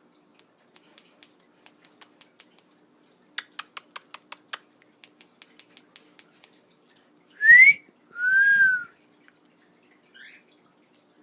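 A wolf whistle: a quick rising note, then a longer note that rises and falls, followed a little later by a short faint chirp. Before it comes a run of small quick clicks, about four a second.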